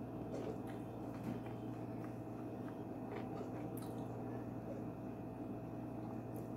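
Faint mouth-closed chewing of shrimp, with occasional small clicks and crackles as food is handled by hand, over a steady low hum.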